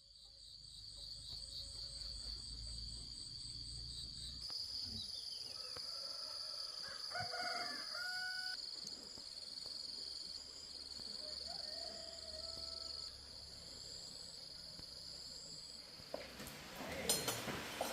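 Insects shrilling steadily in a high, continuous chorus, with a rooster crowing a couple of times. Near the end, a few sharp clinks and knocks of metal clatter break in.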